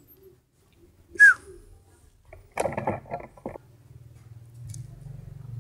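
A single short, sharp high chirp about a second in, like a bird, then a brief burst of pitched calls or distant voices around three seconds in, over a faint low hum that grows near the end.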